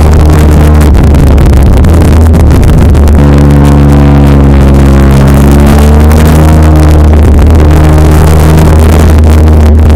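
Honda VFR1200F V4 engine running through an aftermarket DAM exhaust while the bike is ridden, heard on board and very loud. The engine note is rough and unsettled for the first few seconds. It then holds a steady pitch, and changes again a couple of seconds from the end.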